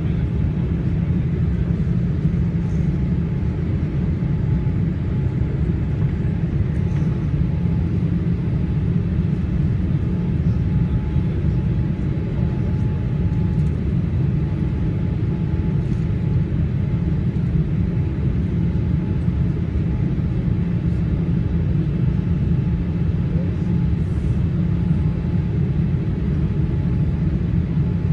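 Steady low rumble of engine and airflow noise inside a Boeing 787 Dreamliner's cabin in flight, with a faint steady hum above it.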